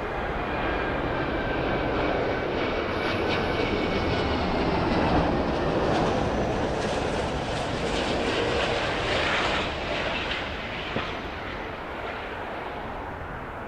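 Jet airliner engines passing close by: a loud jet roar with a faint whine. It swells toward the middle, then eases off in the last few seconds.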